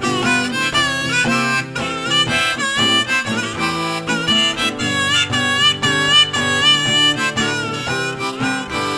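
Blues harmonica solo with acoustic guitar accompaniment, the harmonica playing bending, wavering melodic lines.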